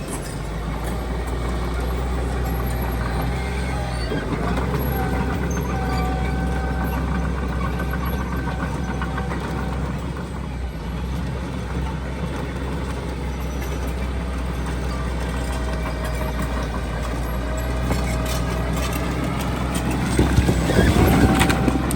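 Heavy diesel earthmoving machinery running steadily with a low engine drone and faint high tones that come and go, then a louder burst of rattling noise near the end.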